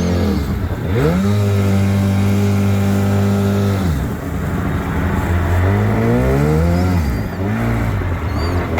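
Two-stroke outboard jet motor on a jon boat being throttled: it revs up, holds a steady high pitch for a few seconds, drops back, then climbs again and eases off and rises once more near the end.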